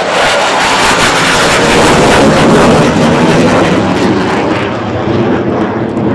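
F-15 fighter jet taking off, its twin jet engines at full power in a loud, rushing roar that peaks about two to three seconds in and eases a little near the end.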